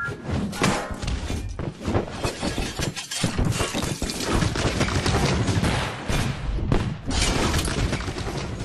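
Crash sound effects from an animated train wreck: a dense, continuous run of smashing, shattering and breaking with many heavy thuds and booms.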